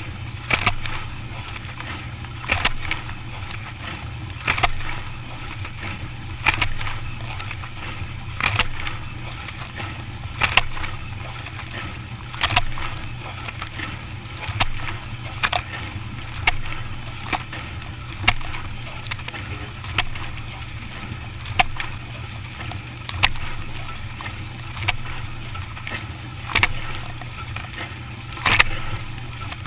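Dishwasher running a wash: a steady pump hum under water splashing in short surges, a stronger one about every two seconds.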